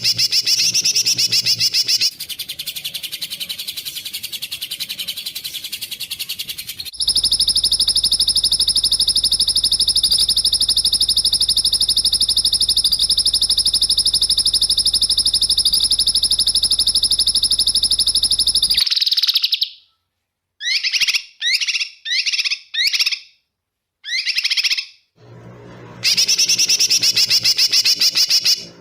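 Masteran recording of high, rapid songbird-style calls, spliced with abrupt cuts. A fast buzzing trill gives way to a long, steady high buzzing trill lasting about twelve seconds, then about six short, separate high chirps, then the fast trill again. It is a recording played to caged songbirds such as murai batu and kacer to teach them call phrases.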